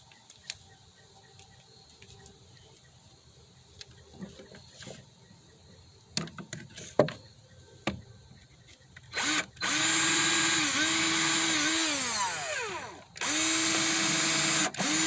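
Power drill motor running in two bursts of a few seconds each, with a steady whine that sags briefly under load. After the first burst it spins down, falling in pitch, before the trigger is pulled again. A few light knocks and clicks come before the first burst.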